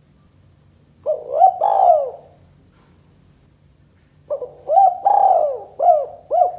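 Spotted dove (tekukur) cooing: a short phrase of a few coos about a second in, then a longer phrase of about five arched coos starting just past four seconds.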